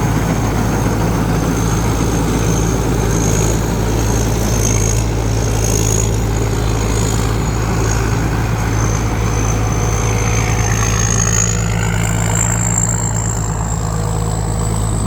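Rice combine harvester's diesel engine running steadily under load while harvesting, with a constant low hum and a high steady whine that rises slightly near the end. The engine does not labour in the heavy rice.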